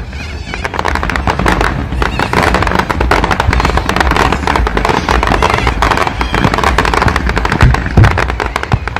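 Fireworks display: a dense, continuous crackle of many small bursts, with a couple of heavier booms about eight seconds in.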